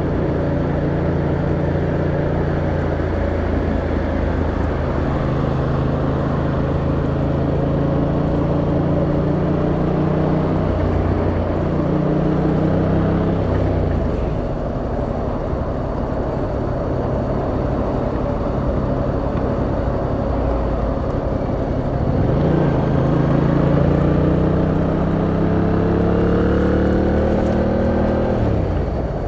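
Yamaha MT-07's 689cc twin-cylinder engine under way, its pitch holding steady for stretches, stepping and sliding as the rider changes speed. About two-thirds of the way through it pulls up steadily in pitch under acceleration, then drops away sharply near the end as the throttle closes.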